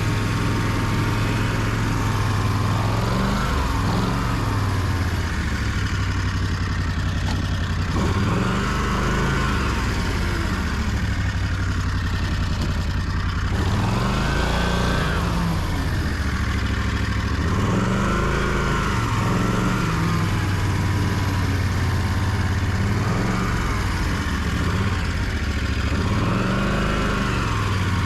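Snowmobile engine running under way, its speed rising and falling every few seconds as the throttle is opened and eased.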